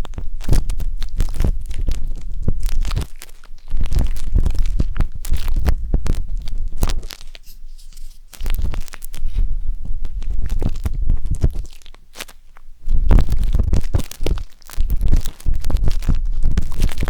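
Wooden tanghulu skewer scraping and rubbing inside the silicone ears of a 3Dio binaural microphone, giving close, crackly scratching strokes with a heavy low rumble. The scratching comes in stretches with a few short pauses.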